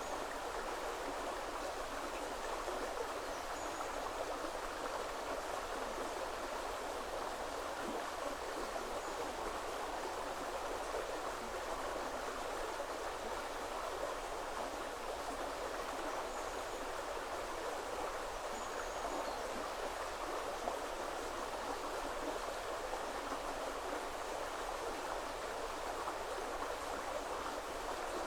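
A woodland river flowing, a steady rush of water, with a few faint high bird chirps now and then.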